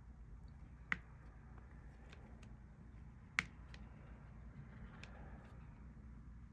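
Small sharp clicks and taps of a diamond-painting drill pen picking up and pressing resin drills onto the canvas: two louder clicks, about a second in and near the middle, among fainter scattered ticks.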